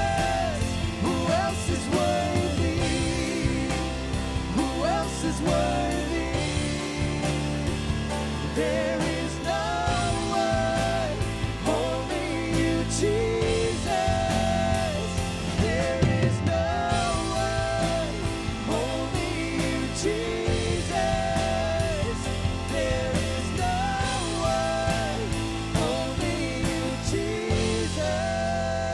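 Live worship band playing a passage without words: drums, bass and a gliding melody line.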